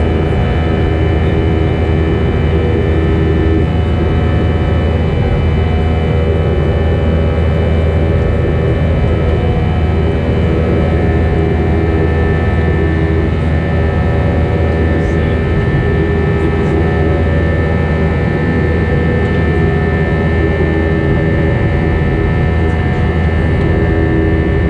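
Cabin noise of an Airbus A320 in flight: its jet engines run at a constant setting, giving a steady rumble with several unchanging whining tones over the rush of air.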